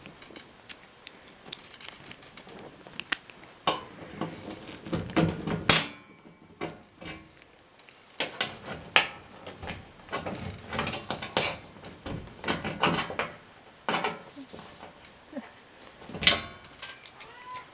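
Irregular knocks, clicks and scrapes of a flathead screwdriver prying the top panel of an LG front-load washing machine loose, with a brief ringing clang about six seconds in.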